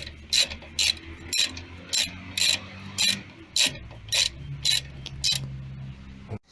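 Ratchet wrench clicking at an even pace, about two clicks a second, as the guide bolts of a front brake caliper are tightened.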